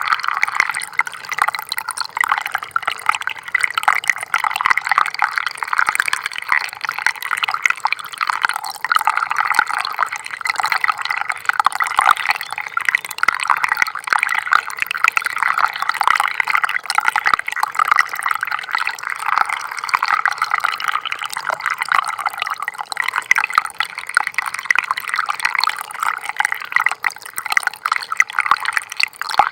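Gentle stream of water trickling steadily, a dense, even patter of small splashes and drips.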